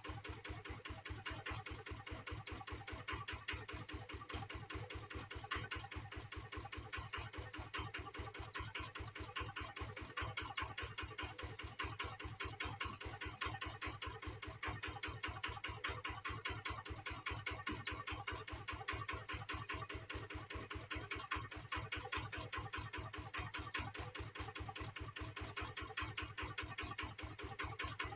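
Kubota engine running at a steady speed, a rapid, even chugging of firing pulses that does not change.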